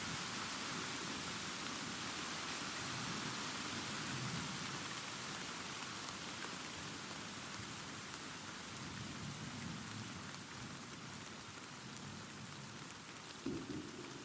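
Steady rain with a low rumble of distant thunder underneath. The rumble fades through the second half, and a short louder rumble comes in near the end.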